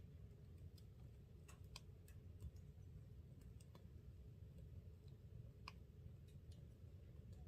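Wood fire crackling in a wood-burning stove: faint, sparse, irregular sharp pops over a low steady rumble.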